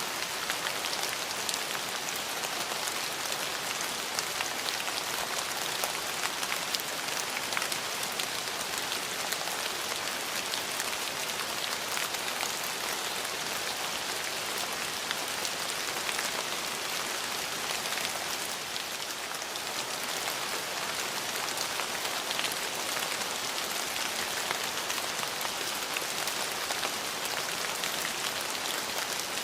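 Steady rain falling, a dense even hiss of rain on surfaces with many small individual drops ticking through it.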